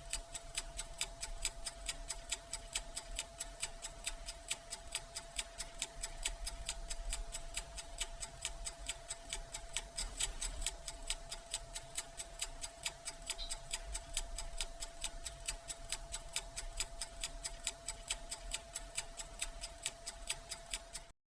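Even, regular ticking, about four ticks a second, over a steady high-pitched hum; it cuts off suddenly near the end.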